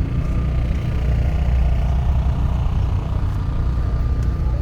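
A car engine running close by: a steady, loud, low rumble.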